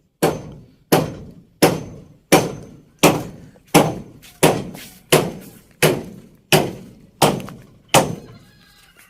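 A tool striking wood again and again with heavy, evenly paced knocks, about a dozen strokes roughly 0.7 seconds apart, each dying away quickly; the strokes stop about a second before the end.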